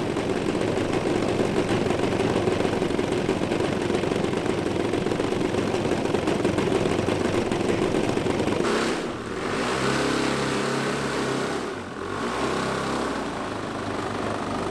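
Engines of a quarter-scale RC Beech-18 model aircraft running steadily. About nine seconds in, the sound changes abruptly to a softer, steadier tone.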